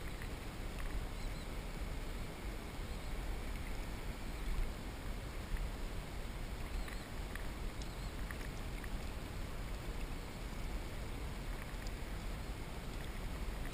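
Steady water and wind noise from a kayak on the move, heard through a GoPro camera, with a low rumble underneath. A few faint short high chirps and clicks come through it.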